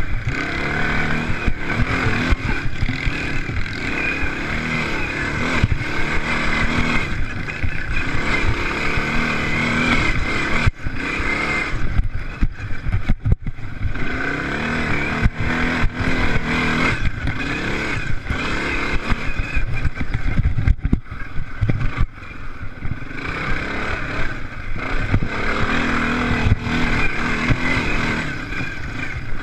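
Several off-road racing engines revving hard and changing pitch as the machines go round the track, the sound overlapping and rising and falling throughout.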